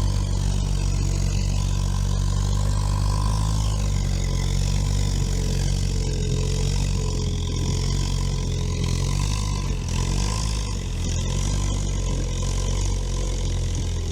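All-terrain vehicle engine running steadily under load as the vehicle climbs a hill, with a wavering whine above the engine note.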